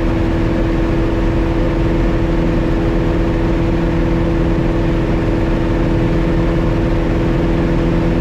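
The Piper Cherokee 180's four-cylinder Lycoming O-360 and its propeller drone steadily inside the cabin at climb power. The engine is newly installed and in its break-in period.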